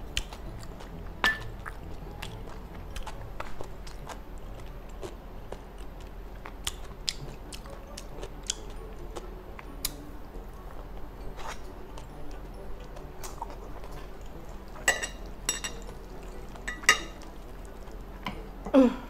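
Close-up eating sounds: a person chewing and biting mouthfuls of spicy gopchang (intestine) fried rice, with many small scattered clicks. A few louder clinks and scrapes come near the end, as the wooden spoon scoops from the glass dish.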